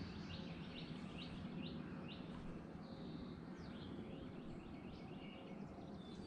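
Songbirds chirping again and again, faint and in the background, over a low steady outdoor noise.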